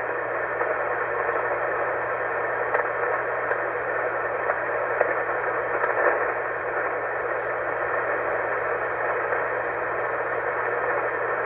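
Steady hiss of 20-meter band noise from a shortwave receiver in single-sideband mode, with a faint low hum and a few faint crackles: an open frequency with no station transmitting while the net waits for check-ins.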